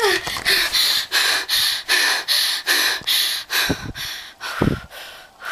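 A person breathing in quick, hard gasps, about three breaths a second, fading out near the end.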